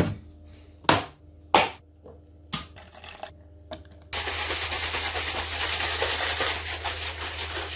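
Plastic protein shaker bottle being handled: a few sharp clicks and knocks of the lid and bottle, then, about four seconds in, a steady noisy rattle of powder and water being shaken hard in the bottle.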